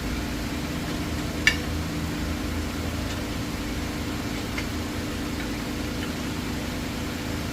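Steady mechanical hum with a single sharp metallic clink about a second and a half in, as of a hand tool knocking against brake hardware, and a few faint ticks later.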